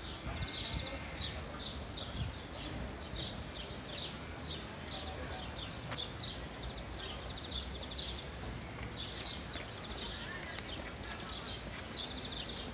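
Small birds chirping over and over, a couple of short high chirps a second, over a low steady rumble. A louder, sharper high call sounds about six seconds in.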